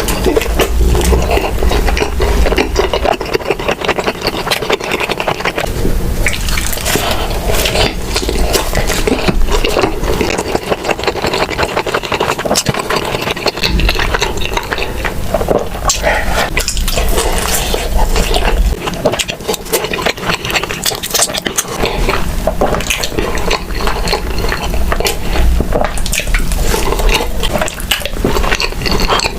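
Close-miked eating sounds: wet chewing and mouth sounds with a dense run of small clicks and crackles, with no pause.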